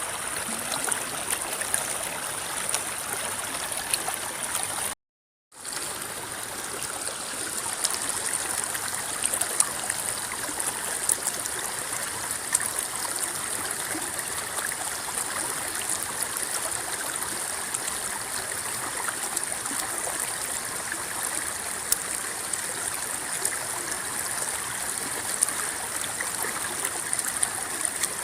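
River water rippling and babbling steadily, with many small splashy ticks. The sound cuts out completely for about half a second about five seconds in.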